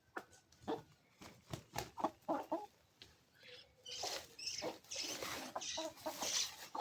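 Hungry chickens clucking excitedly at feeding time: scattered short clucks and knocks at first, then from about four seconds in a denser, busier rustle with calls mixed in.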